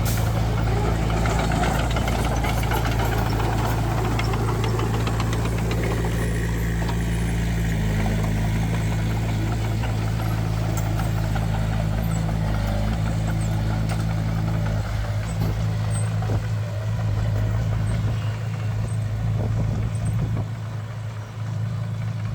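Heavy diesel engine of construction machinery running steadily, with a slight change in its note about a third of the way in.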